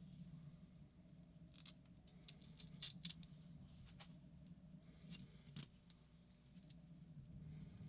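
Faint clicks and clinks of small metal tools and parts being picked through and handled, in a cluster a couple of seconds in and then a few scattered ones, over a low steady hum.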